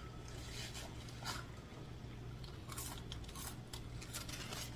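A person chewing and crunching fast food close to the microphone, with a series of short, irregular crackly bites and chews over a steady low hum.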